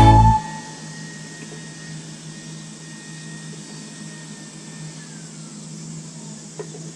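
A steady low mechanical hum with a faint hiss, and a single short click near the end. Background music cuts off right at the start.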